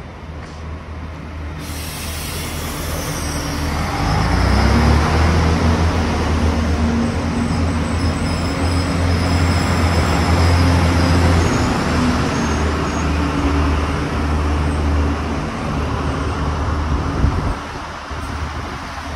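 Green Iarnród Éireann diesel multiple-unit train approaching and running past: a low engine drone and the rumble of wheels on rail build over the first few seconds and stay loud and steady through the middle. The sound drops off near the end, just after a sharp clack.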